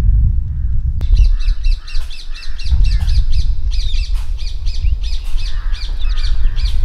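Birds calling outdoors. A fast, even series of high chirps starts about a second in, over lower, slower calls and a steady low rumble.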